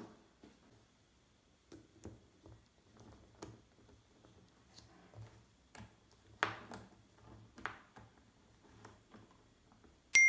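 Small magnetic balls clicking and snapping together one at a time, in scattered single clicks. A loud electronic beep starts right at the end.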